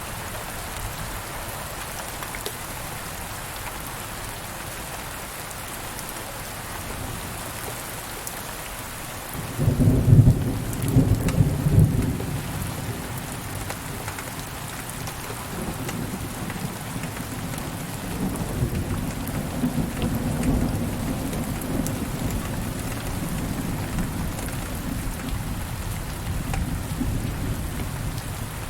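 Steady rain falling, with a thunderclap breaking in sharply about a third of the way through, loudest over a couple of seconds, then low thunder rumbling on under the rain to the end.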